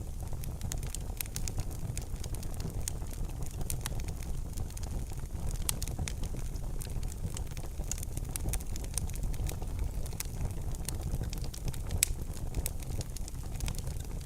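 Fireplace wood fire crackling, with frequent sharp pops and snaps over a steady low rumble of the flames, and one louder pop near the end.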